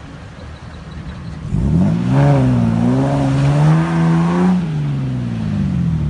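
Four-wheel-drive vehicle's engine revving hard under load on a sand climb. Its pitch shoots up about a second and a half in, holds for about three seconds with a wavering rise, then drops away near the end.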